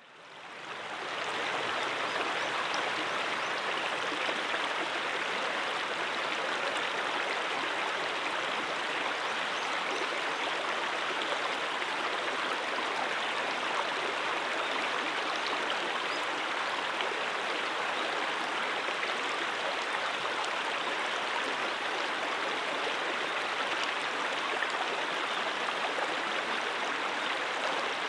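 Brook water running steadily over rocks, a constant rushing babble that fades in over the first second or so and then holds even.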